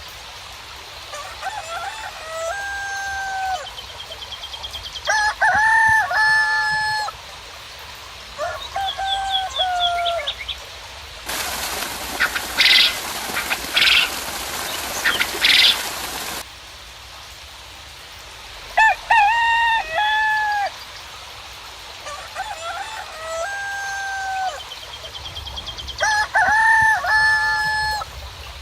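Roosters crowing again and again, with small birds trilling high and fast between the crows. Midway, a steady hiss of rain comes in for about five seconds and stops suddenly.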